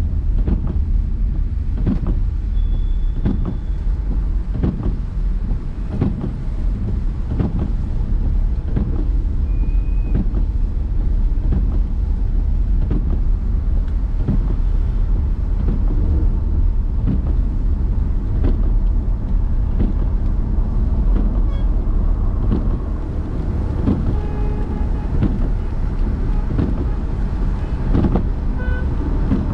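Car driving on city roads: a steady low rumble of engine and road noise, with frequent short knocks and a few brief faint tones.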